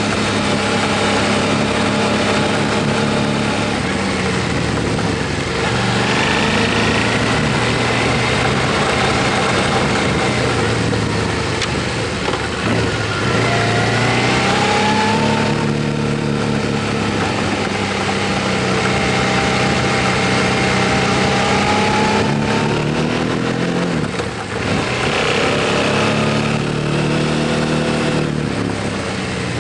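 Motorcycle engine running while riding, its pitch rising and falling repeatedly, with brief drops in level about 12 and 24 seconds in.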